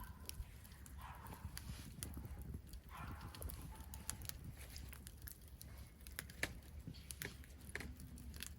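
Campfire burning, crackling with scattered sharp pops and snaps.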